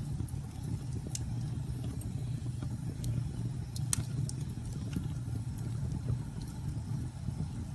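Steady low rumble of storm wind with scattered sharp crackles and pops of a burning wood fire; one louder pop comes about four seconds in.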